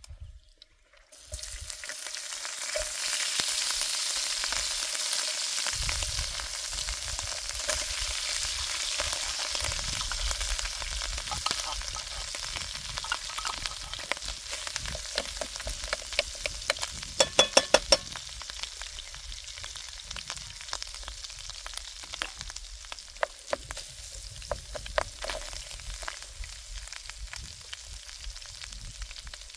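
Food frying in a hot pan, the sizzle starting suddenly about a second in and running on. A utensil scrapes and clicks against the pan throughout, with a quick run of loud clicks just past the middle.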